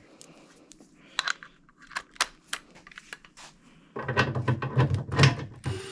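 Light scattered clicks and taps of tools being handled, then about a second and a half of louder clattering near the end.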